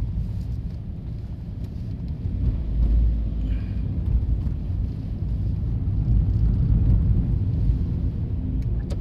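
Diesel railcar on a rural single-track line, a low steady rumble of engine and wheels that swells and eases as it runs past the level crossing.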